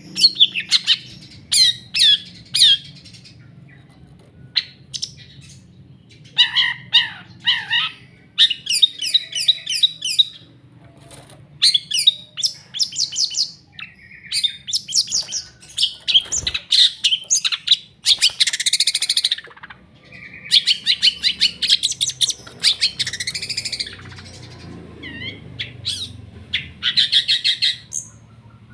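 Long-tailed shrike (cendet) singing actively: rapid chattering phrases of sharp, high chirps in bursts of a second or two with short pauses between, including one harsher, rasping phrase about two-thirds of the way through.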